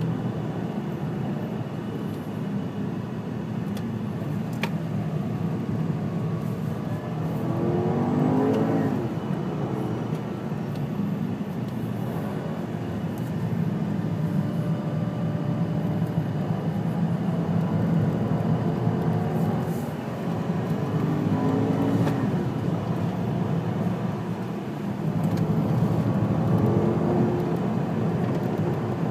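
Porsche Panamera Turbo S twin-turbo V8 heard from inside the cabin at track speed, a steady engine and road drone. The engine note climbs three times as the car accelerates.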